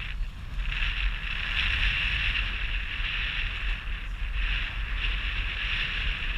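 Wind buffeting the microphone under a steady hiss, as a jet ski sits on the open water.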